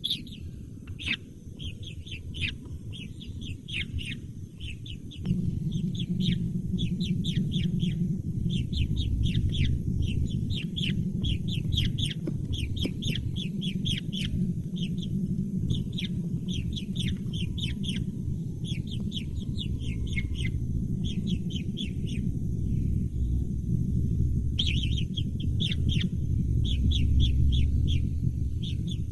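Baby birds chirping insistently, a fast run of short, falling peeps several a second, with a low rumble joining about five seconds in.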